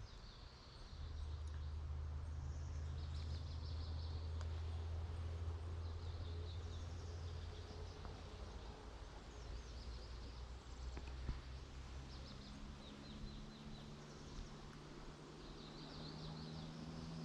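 Small forest birds chirping in short, repeated trills over a low steady drone, which shifts a little higher in pitch about twelve seconds in.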